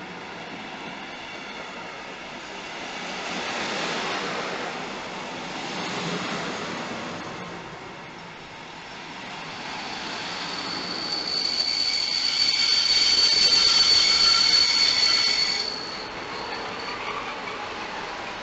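DB Regio double-deck push-pull train running along the platform, coaches passing with the locomotive at the rear. About ten seconds in, a steady high squeal from the running gear sets in and cuts off suddenly a couple of seconds before the end.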